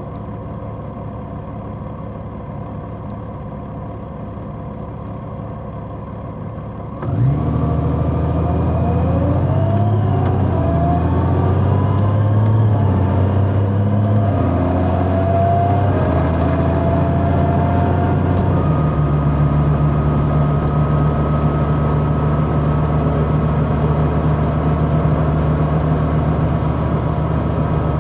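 Large motorcycle engine idling, then about seven seconds in pulling away and accelerating through the gears with rising engine pitch, settling into a steady cruise.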